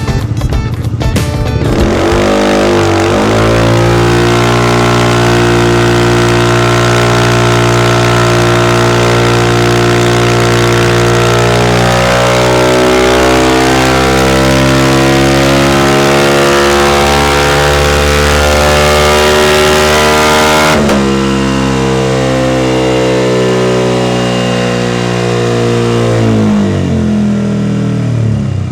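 Italjet Dragster 300's single-cylinder engine running through a PR2 AK Titanium full exhaust system, opening after a brief burst of music. It revs up sharply about two seconds in and holds high revs steadily for many seconds, eases back about twenty seconds in, and the revs fall away near the end.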